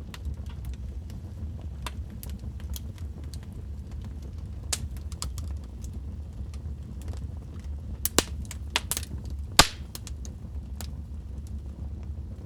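Wood fire crackling in a fireplace: a steady low rumble of flame under scattered sharp pops and snaps. About eight seconds in comes a quick run of louder pops, and the loudest single snap falls near the end of that run.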